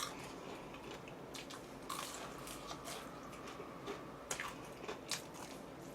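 Close-miked eating sounds: scattered soft clicks and smacks of someone biting and chewing food, with a faint steady tone for a couple of seconds in the middle.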